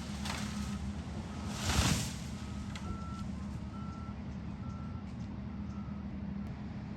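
Heavy equipment's backup alarm beeping about once a second over a steady engine drone, with a brief rushing noise about two seconds in.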